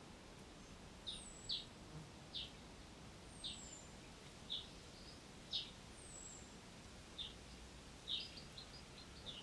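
Birds calling faintly: short high chirps every half second to a second, with a thin, very high falling whistle repeating about every two seconds.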